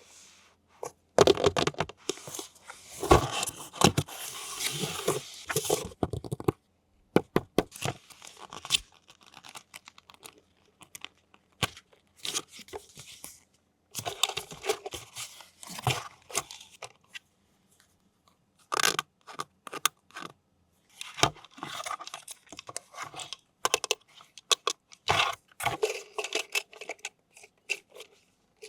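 Toy packaging being torn open and handled: tearing and crinkling in irregular bursts, with sharp clicks and short pauses between them.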